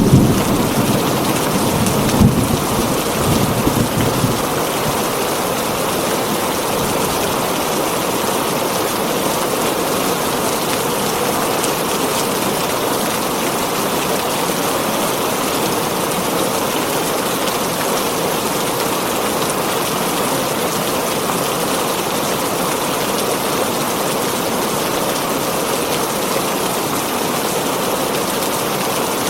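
Heavy rain drumming steadily on a tin roof, with a low thunder rumble in the first few seconds that fades out, leaving only the even rain.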